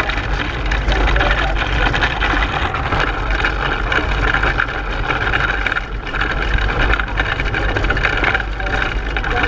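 Onboard a racing pedal car: the steady rumbling, rattling noise of the car rolling at speed over the road surface.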